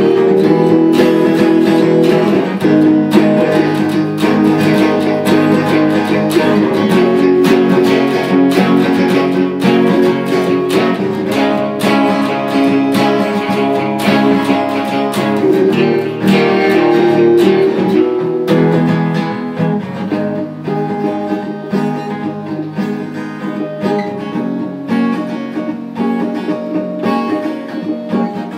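Acoustic guitar strummed in a steady rhythm over changing chords, with no singing; the playing gets softer about two thirds of the way through.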